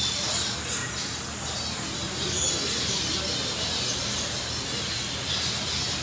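Small cage birds, Java sparrows, giving scattered short high chirps over a steady low hum.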